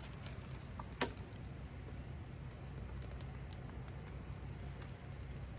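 Quiet room tone with a steady low hum, one sharp click about a second in, and a few faint small ticks after it.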